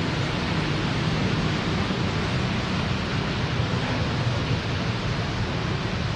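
Heavy rain falling, a steady hiss and rush.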